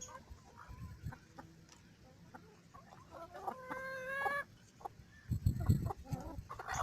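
Feeding hens clucking among scattered small clicks, with one drawn-out hen call about a second long midway. A few dull thumps follow near the end.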